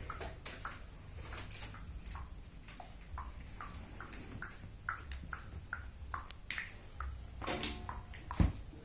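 Light clicks, taps and small pinging ticks of small parts being handled during assembly, with one louder thump near the end, over a low steady hum.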